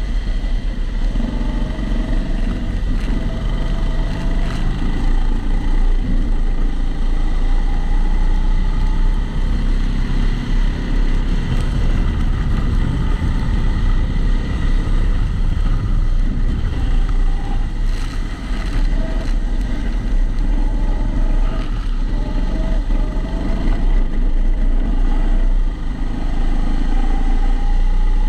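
Kombikart Eco kart's motor heard onboard, rising and falling in pitch as the kart accelerates and brakes through corners, muffled by the camera's waterproof housing. A thin steady high tone runs underneath.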